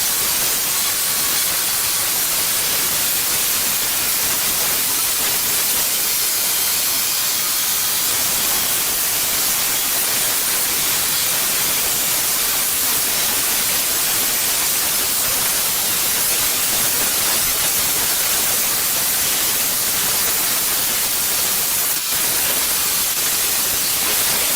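Floor edge sander, a rotary disc sander, running steadily against old wood flooring at the wall edges: a loud, even hiss of abrasive grinding on wood.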